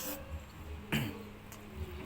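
Close-miked eating noises while eating eggs: a small click at the start and a sharper mouth sound about a second in.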